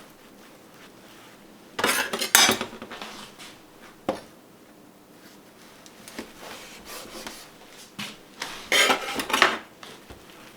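Dishes and cutlery clinking and clattering in two bursts of about a second each, several seconds apart, with a single sharp knock in between.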